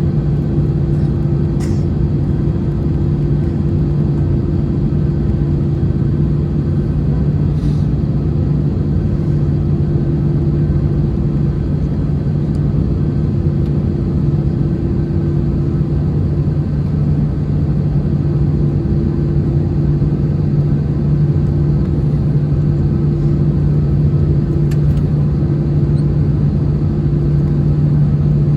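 Steady drone of an Airbus A321-211's CFM56 engines and airflow heard inside the passenger cabin, a low rumble with a constant two-tone hum, and a few faint clicks.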